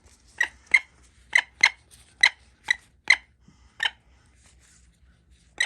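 A falcon giving a run of short, sharp 'kak' calls, about eight in quick, uneven succession over the first four seconds and one more near the end. It is the agitated calling the handlers describe as yelling at the crows and ravens.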